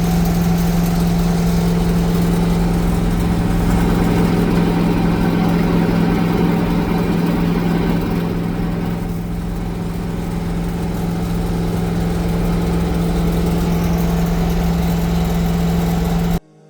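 Chevrolet K5 Blazer's 6.2-litre V8 running steadily and loud, exhausting through uncapped true dual open headers with no mufflers. The sound cuts off abruptly near the end.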